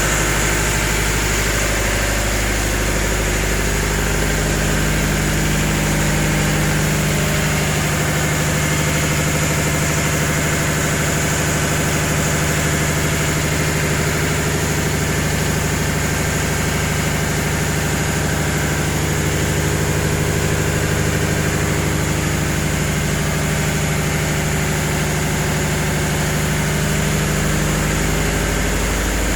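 Steady drone of a tugboat's running engine machinery heard from inside the vessel, with a constant low hum and no change in pitch or level.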